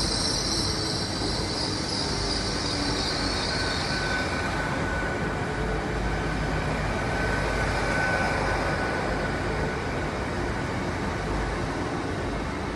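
Class 800 train running into the platform, a steady rail rumble with a high squeal in the first few seconds and a thin, steady whistling tone around the middle.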